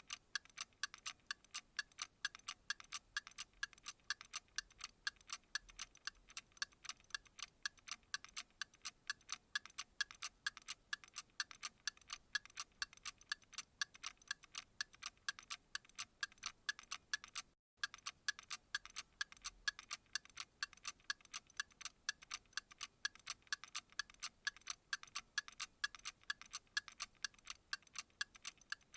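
Steady, rapid ticking, evenly spaced sharp ticks with no other sound; it cuts out for an instant a little over halfway through.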